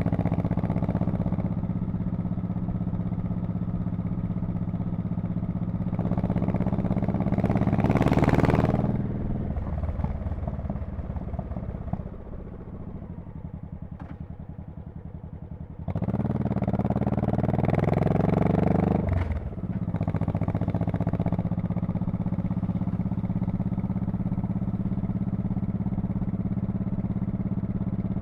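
Exhaust of a 2002 Honda Shadow Spirit VT1100C V-twin cruising at steady throttle. It swells with more throttle about 8 seconds in and eases back to a quieter lull for a few seconds. It then picks up again with rising pitch, breaks off briefly as if on a gear change, and settles back into a steady cruise.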